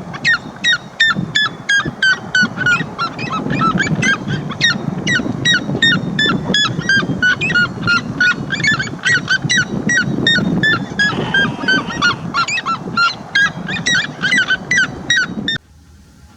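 A bird calling rapidly and repeatedly, about four short notes a second, over a low background rumble. The calls cut off suddenly near the end.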